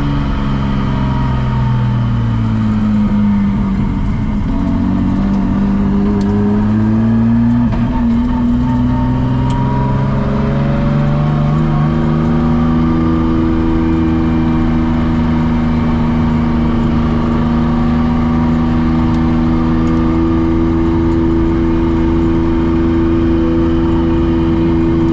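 Nissan Skyline R32 drift car's engine under way: the revs drop over the first few seconds, climb again, then settle into a steady drone at constant speed for the second half.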